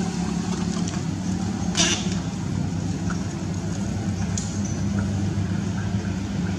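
Steady low mechanical hum of a running motor, with a short burst of hiss about two seconds in and a faint click a little later.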